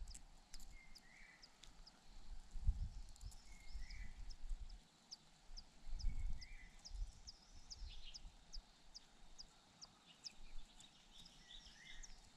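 Small birds calling outdoors: a short chirp near the middle of the range repeats every second and a half to two seconds, and from about the middle on a rapid run of thin, high chirps goes at about two to three a second. Low rumbles, the loudest sounds, come and go about three seconds in and again about six seconds in.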